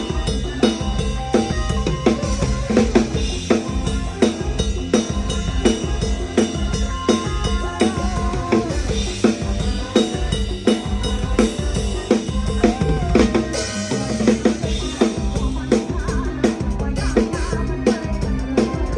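PDP drum kit played live in a band: a fast, steady beat of bass drum, snare and rimshots, with the band's bass and melody instruments underneath.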